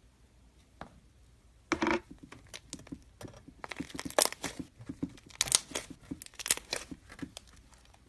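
Slime being squeezed and pulled by hand, giving a run of crackling pops and small tearing sounds, starting just before two seconds in.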